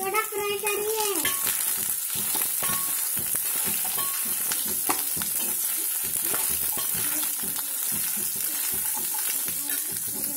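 Coconut pieces sizzling in hot oil in a steel kadai, stirred with a plastic spatula in short repeated strokes over a steady hiss.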